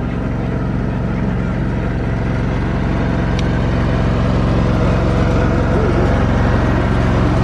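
Stearman biplane's 450 hp nine-cylinder radial engine running steadily with an even, rapid firing beat, slowly getting a little louder.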